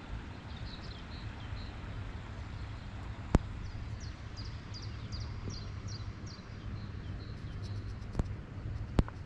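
Small birds chirping in a series of short, quick falling notes over a steady low outdoor rumble. Three sharp clicks cut through: about a third of the way in, and twice near the end.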